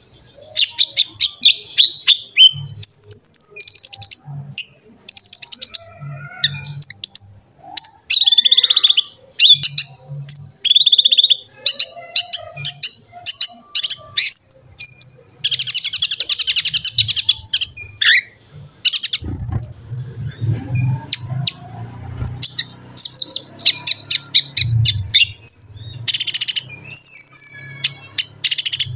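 Brown-throated sunbird (kolibri ninja) singing non-stop: rapid high chirps, sharp sweeping notes and twittering trills, with a dense buzzy trill about halfway through. A low rumble sits underneath for a few seconds after the middle.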